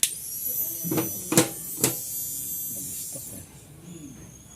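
Electric fuel pump of a Suzuki APV running with a high-pitched whine, struck sharply three times between one and two seconds in. The whine fades after about three seconds and a fainter tone follows: the pump runs only when tapped and cuts out again, a sign that it has failed.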